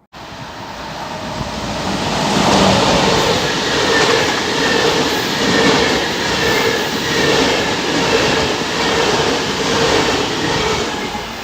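A train passing close by on the rails. The sound starts abruptly, builds over the first couple of seconds, holds loud with a slow rise and fall, and eases near the end.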